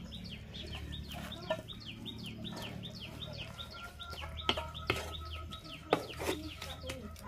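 A bird chirping rapidly in short, high, falling notes, about four a second. Over it, a wooden spatula knocks and scrapes against a metal kadai as chicken curry is stirred.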